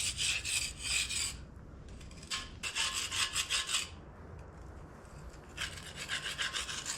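A chisel scraping thick, packed dirt and oily grime off a tractor front weight by hand. The rasping strokes come in three bursts with short pauses between them.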